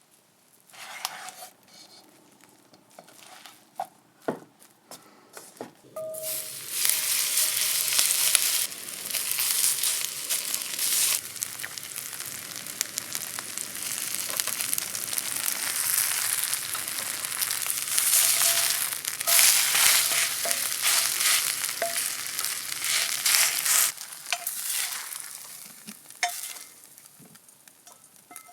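Spring-vegetable pancake (jeon) frying in hot oil in a pan: a few light knocks, then a loud sizzle starts suddenly about six seconds in and dies down near the end.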